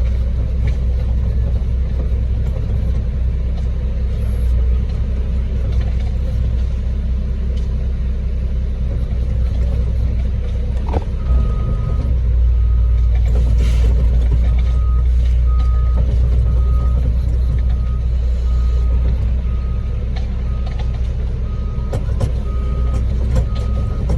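A concrete mixer truck's diesel engine runs with a steady low rumble. From about halfway, a backup alarm starts beeping evenly, a little more than once a second.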